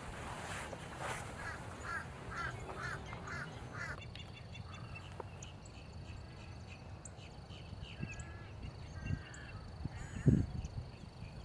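Wild birds calling: a quick run of about five repeated calls in the first few seconds, then scattered short chirps over a faint steady high whine. A single low thump near the end is the loudest sound.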